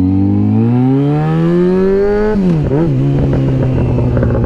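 2009 Yamaha FZ6R's inline-four engine running through an aftermarket M4 exhaust while the bike accelerates. The engine note climbs steadily for about two seconds, drops sharply at an upshift about halfway through, then holds a steady lower pitch.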